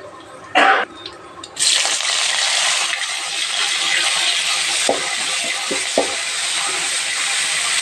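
A short loud clank, then hot oil in a kadai starts sizzling suddenly about a second and a half in and keeps up a steady sizzle, with a few faint pops, as mustard seeds go into the hot oil for the rasam tempering.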